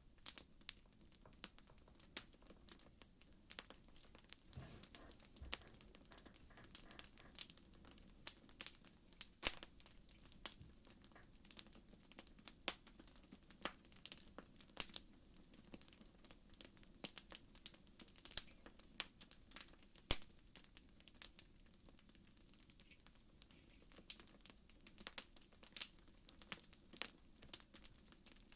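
Fire crackling: a steady stream of irregular sharp pops and snaps over a faint low rumble.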